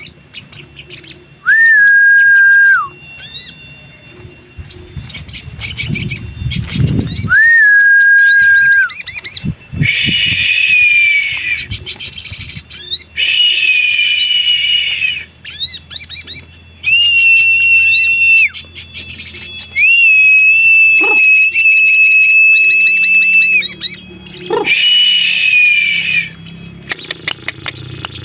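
Little spiderhunter (sogok ontong) song: long, level whistled notes that flick up at the start and drop at the end, mixed with rapid high trills and chirps. There is a brief low rumble about six seconds in.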